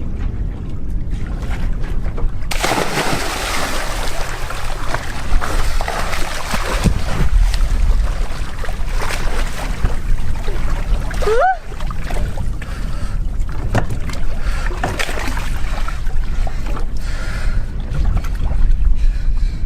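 Speed boat under way on the sea: a steady low rumble with water rushing and wind buffeting the microphone, the rushing setting in suddenly about two and a half seconds in. A short rising pitched sound comes about eleven seconds in.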